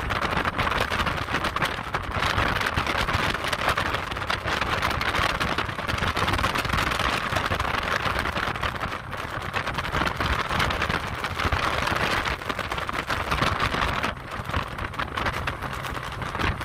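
Jet boat running at speed: a steady rushing noise of the engine and water spray, easing briefly about two seconds before the end.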